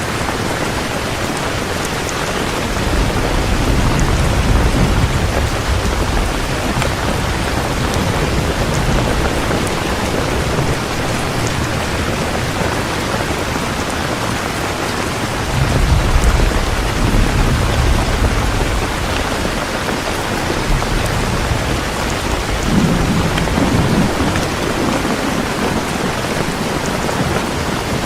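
Heavy rain falling steadily, with three low rolls of thunder: one about three seconds in, one past the middle, and a shorter one near the end.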